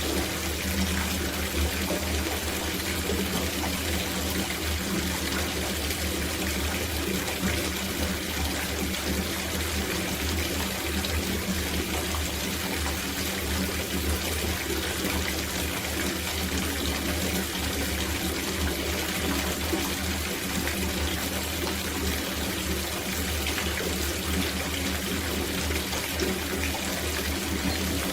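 Running water pouring into an outdoor copper bathtub as it fills, a steady, unbroken splashing.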